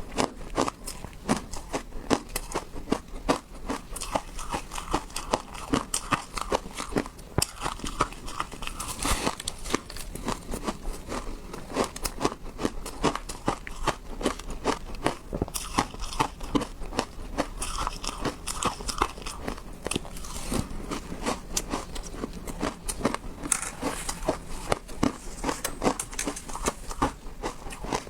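A person crunching and chewing hard ice: a dense run of crisp cracks, several a second, without pause.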